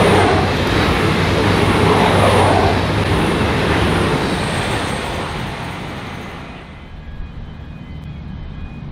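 V/Line VLocity diesel railcar train running through at speed without stopping, its engines and wheels loud and close. The sound then fades away over the last few seconds as it recedes.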